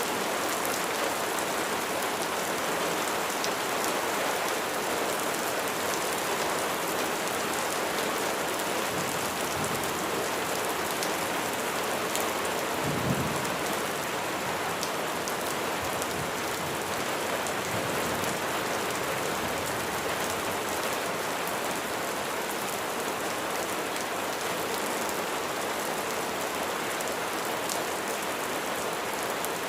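Steady heavy rain falling on surfaces, an even hiss, with one brief low rumble a little under halfway through.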